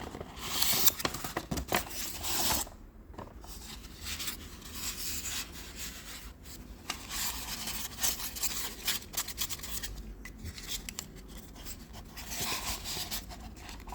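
Packaging of a boxed die-cast model being handled and worked at to get the model out: irregular rubbing, scraping and rustling with small clicks, a little louder near the start and again near the end.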